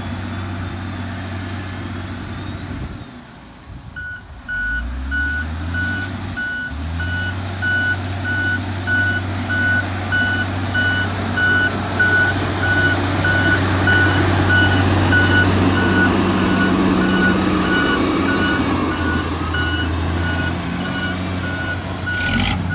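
Heavy diesel construction machine, likely the motor grader, running; its engine drops away about three seconds in, then picks up again with rising pitch. From about four seconds in a reversing alarm beeps steadily and evenly while the machine works.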